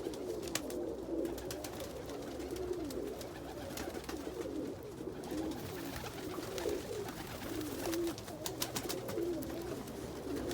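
Domestic pigeons cooing: several birds' low, wavering coos overlapping without a break, with scattered light clicks.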